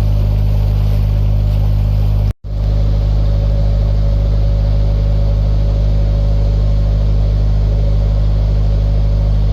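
Narrowboat's diesel engine running steadily while cruising, a constant low drone with a short break about two and a half seconds in.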